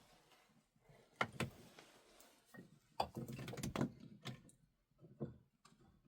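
A series of sharp knocks and clatters, irregular, with a busier stretch of clattering about three to four seconds in.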